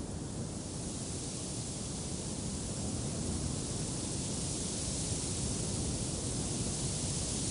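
Wind blowing steadily as a broad rushing noise, swelling a little over the first few seconds.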